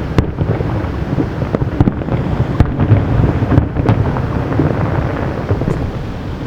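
Aerial fireworks shells bursting: a continuous rolling rumble of booms, with sharp bangs cracking through it several times.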